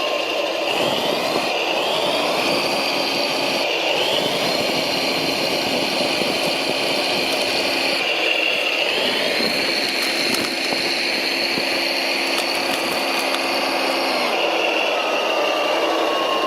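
Electric motors of radio-controlled construction machines whining, the pitch gliding up as they speed up and dropping back as they slow, several times over, over a steady mechanical whir.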